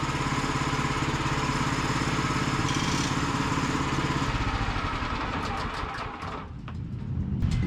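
Gasoline engine of a Woodland Mills portable bandsaw sawmill running steadily, then dropping away after about four seconds as it winds down, with a few light clicks near the end.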